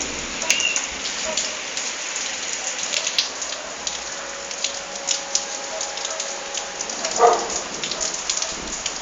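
Heavy rain pouring down during a thunderstorm, a steady hiss full of close drops pattering and splashing on surfaces. A brief, sharp louder sound cuts through the rain about seven seconds in.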